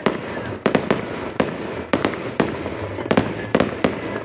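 Fireworks going off: a rapid, irregular string of about a dozen sharp bangs, some close together, over steady background noise.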